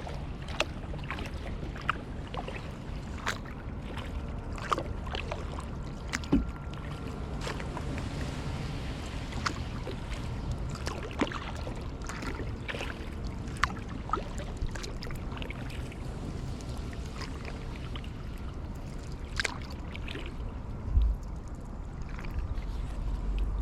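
Kayak paddling: the paddle blades dip into the water with sharp little splashes and drips about once a second, over a low steady rumble. There are a couple of duller thuds, one about a quarter of the way in and one near the end.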